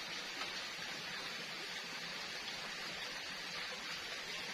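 Steady forest background ambience: an even hiss with no distinct events.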